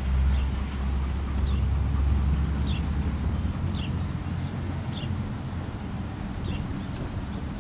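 A bird repeats a short, high, falling chirp about once a second over a steady low rumble.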